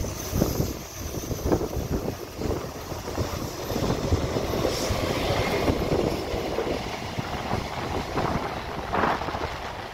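Taipei Metro electric train running on the track, a rough rumbling and rattling noise, louder around the middle, with wind buffeting the microphone.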